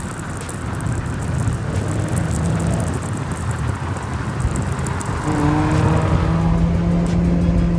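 Car engine running and revving, settling into a steady held note about five seconds in.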